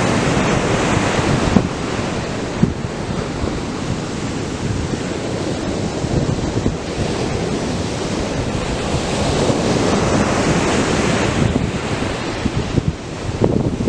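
Atlantic surf breaking and washing up the beach, one wave fading early on and another swelling about ten seconds in, with wind buffeting the microphone.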